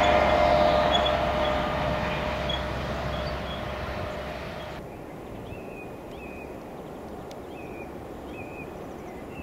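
An electric regional train running away down the line, its rumble fading steadily over about five seconds. The sound then cuts abruptly to a quieter outdoor background in which a bird chirps repeatedly in short pairs of notes.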